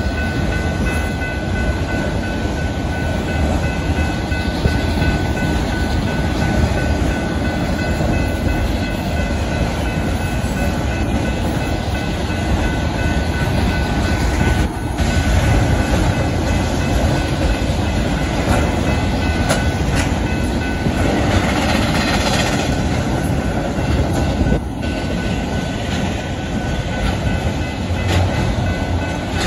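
BNSF freight train of autorack cars rolling steadily past at a grade crossing: the continuous noise of the wheels on the rails, swelling slightly a couple of times. Thin steady high tones run above it.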